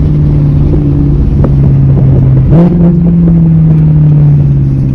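Straight-piped, naturally aspirated V8 of an Audi R8 running loud under way. Its note sinks slightly, jumps up sharply about halfway through, then eases gradually down.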